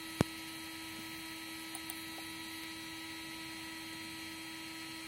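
Steady electrical hum with a thin high whine from a powered-up 3D printer standing idle. One sharp click a fraction of a second in, and a few faint ticks around two seconds in.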